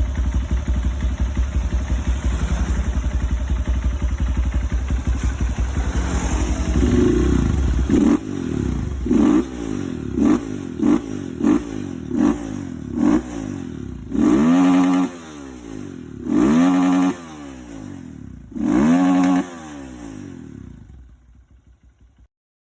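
A freshly assembled Honda CRF single-cylinder four-stroke motorcycle engine, bored up to 200 cc, running. It idles steadily, then the throttle is blipped in a string of quick revs about once a second, then opened in three longer revs that rise and fall. The engine then runs down and stops near the end.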